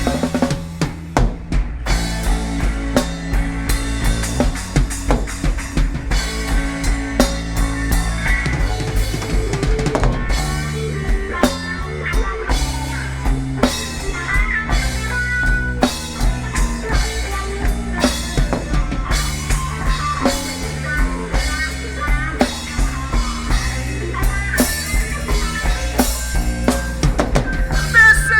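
Live blues band playing an instrumental passage: drum kit with kick, snare and rimshots keeping a steady beat under a bass line, with a bending lead guitar line.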